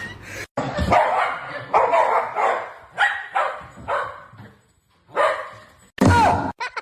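A dog barking repeatedly, about two barks a second, then a short pause and a few more barks.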